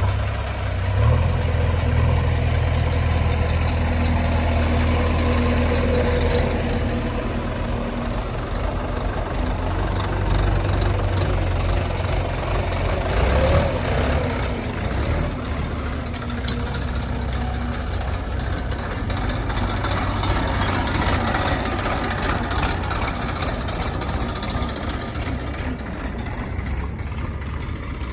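Heavy diesel engine running with a steady low drone, with scattered clicks and rattles over it.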